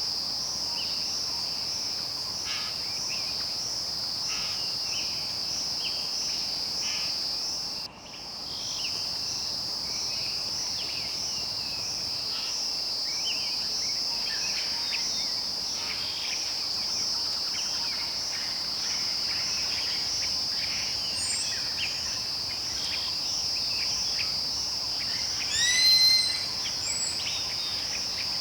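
Rainforest insect chorus: a dense, steady high-pitched drone with an even pulse, with scattered short bird calls beneath it. The chorus drops out for a moment about a third of the way in, and near the end a bird gives a loud call of several quick notes.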